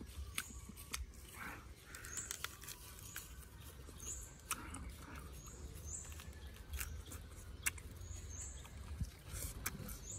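Scattered sharp clicks of chewing and biting into barbecued pork ribs, with short high bird chirps about once a second in the background.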